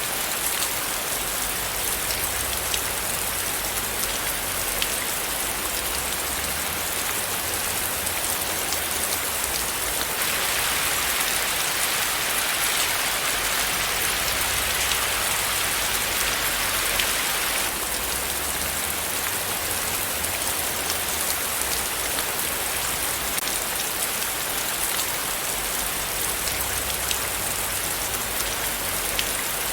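Steady rain falling, a dense hiss of many small drops pattering. For several seconds in the middle the hiss grows a little brighter and louder, then settles back.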